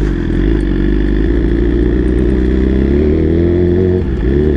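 Superbike engine running as the bike rides off, its pitch holding steady, then dropping briefly about four seconds in before climbing again.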